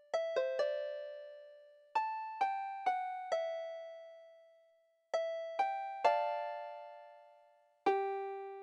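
A slow melody of single struck notes with a piano-like tone, each note ringing and fading away. The notes come in small clusters of two to four, with pauses of a second or more between them.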